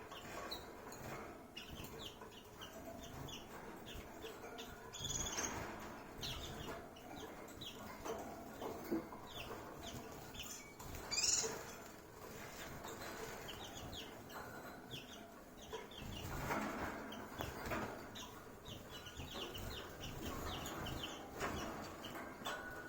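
Small white-eye (Zosterops) bathing: many short, high chirps repeated throughout, with several bursts of water splashing and wing-flapping, the loudest about eleven seconds in.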